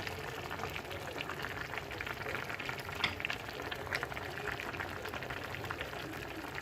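Meat and potato tajine simmering in its sauce: a steady fine bubbling crackle, with a small click about three seconds in and another near four seconds.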